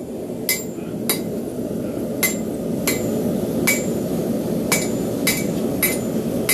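Hand hammer striking a railroad spike on a Hay Budden anvil as the spike is forged into a knife: about nine blows at an uneven pace, each with a short metallic ring. A steady low rushing noise runs underneath.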